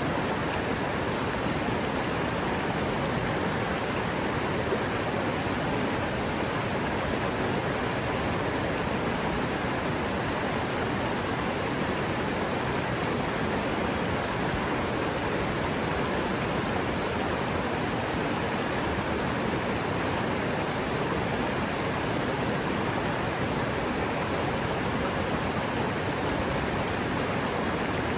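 River water running, a steady, even rush with no breaks.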